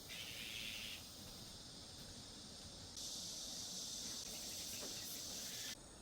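Insects calling in late summer: a buzzing drone for about a second, then a higher, hissing buzz from about three seconds in that stops abruptly near the end, over a faint steady background.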